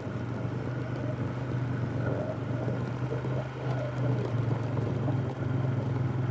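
Fuel-injected Polaris ATV engine running at a steady speed during a trail ride: a constant low hum under the noise of the ride.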